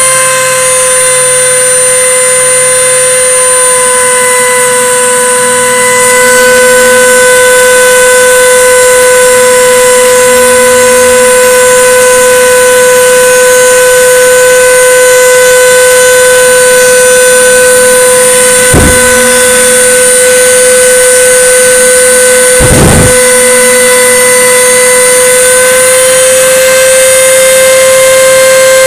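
CNC router spindle running at a steady, loud high-pitched whine while the machine cuts 5 mm plywood. Two brief knocks cut through it, about two-thirds of the way through and again some four seconds later.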